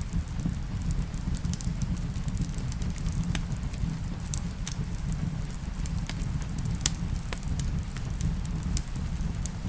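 Wood fire in a fireplace crackling, with many scattered sharp pops over a steady low rumble, the loudest pop about seven seconds in; rain patters faintly underneath.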